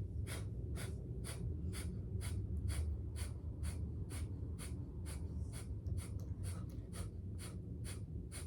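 Kapalabhati pulse breath: short, forceful exhales through the nose as the belly snaps back, about twenty in an even rhythm of a little over two a second.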